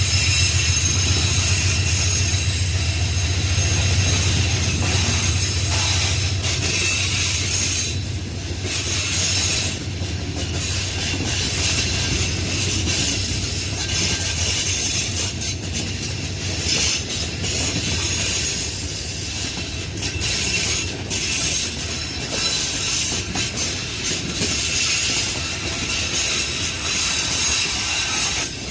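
Loaded pig-iron freight train passing. The low engine rumble of its Dash 9 diesel locomotives fades over the first several seconds, leaving the wagons rolling by with steady high wheel squeal and rail clatter.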